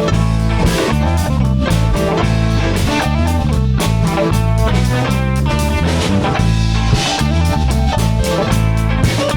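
Instrumental break in a blues-rock song: guitars playing over bass and a drum kit keeping a steady beat.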